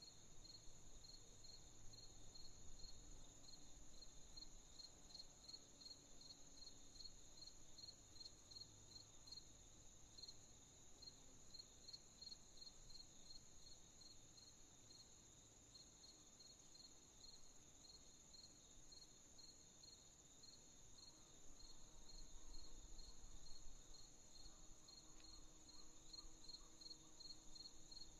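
Faint night chorus of crickets: evenly repeated chirps at about two a second over a steady, higher insect trill.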